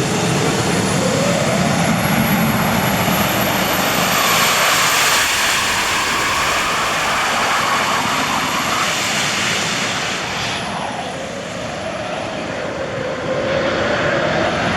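Monster truck engine running hard and loud, revving up about a second in, easing off around ten seconds in, then climbing again near the end.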